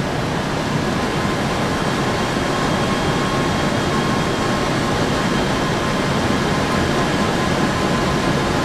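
Steady cockpit noise of a Boeing 747 on approach: rushing airflow and engine hum, with a few faint steady tones running through it.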